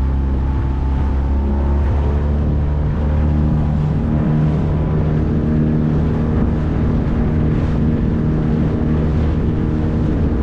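9.8 horsepower outboard motor running steadily, pushing a small boat along under way.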